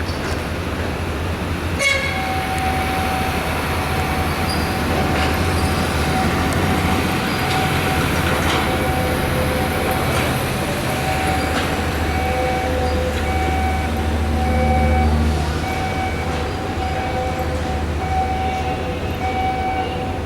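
An alarm comes on with a click about two seconds in and then holds one steady tone. From about halfway, a higher tone beeps on and off in an even rhythm alongside it. A heavy low rumble of machinery or wind runs underneath throughout.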